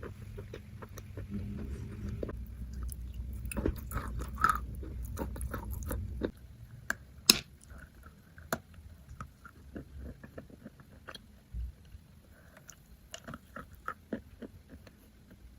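Maria chalk being bitten and chewed close to the microphone, a run of small crisp crunches and clicks. It gets quieter about six seconds in, with one sharp loud crack shortly after.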